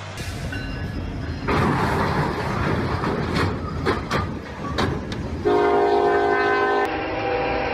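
Norfolk Southern diesel freight train running through a grade crossing after striking a semi-trailer: a loud rumbling rush with several sharp bangs, then from about five and a half seconds in the locomotive horn sounds a steady multi-note chord.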